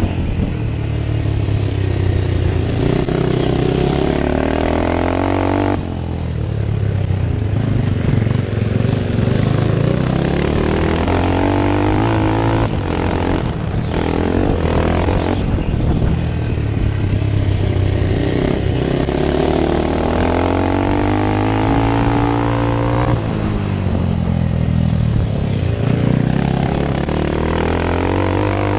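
Scrambles motorcycle engine heard on board the rider's own bike under hard racing throttle, its pitch rising and falling over and over as the rider accelerates, backs off and changes gear.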